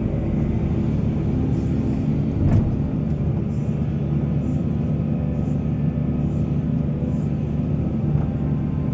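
Heavy diesel mining machinery engine running steadily under load, with a single sharp knock about two and a half seconds in.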